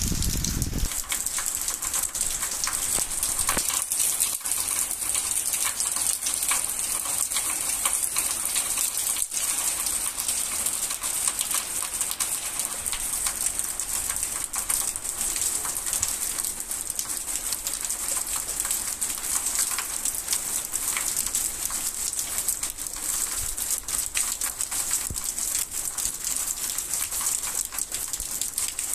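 Torrential rain falling steadily: a dense, even patter of countless drops hitting surfaces.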